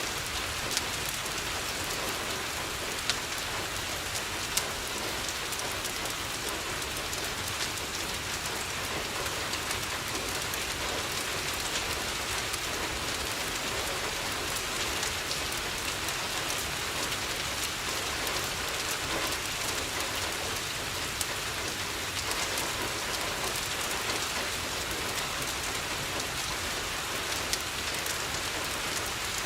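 Steady rain on a window, with a few sharp single pops from a crackling wood fire.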